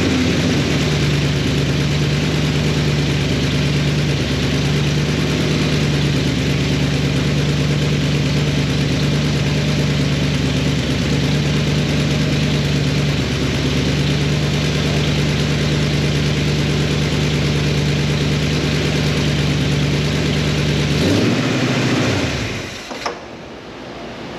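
Chrysler LA small-block V8 (a 318 stroked to 349) running steadily at idle through long-tube headers and cherry-bomb mufflers, then shut off near the end.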